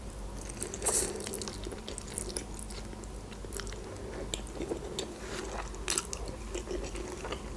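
Close-up mouth sounds of eating noodles: wet chewing with many sharp smacks and clicks, and the noodles being sucked into the mouth from a fork.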